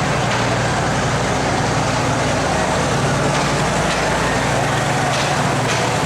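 Railway engine running steadily: a low, even hum under a wide wash of noise, with a few faint clicks.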